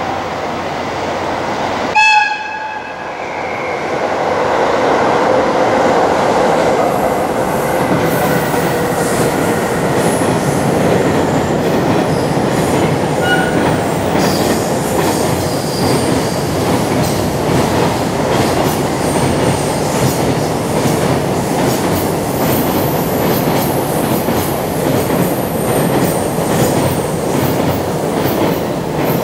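Long container freight train running past on electrified main-line track, its wagons' wheels rumbling steadily over the rails. A short horn blast sounds about two seconds in.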